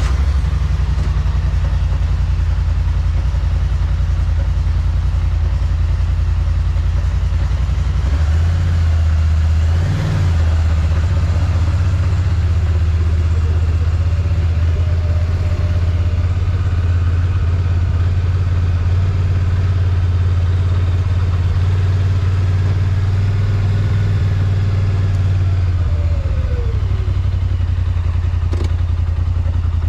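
Polaris Sportsman ATV engine running steadily at a low, even speed just after starting, picking up a little about eight to ten seconds in.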